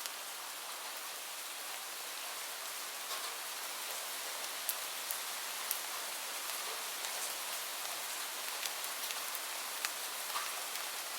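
Steady rain falling, an even hiss with sharp individual drops ticking here and there.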